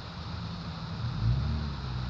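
Toyota Avalon running with its muffler deleted: a low exhaust rumble that grows louder about a second in.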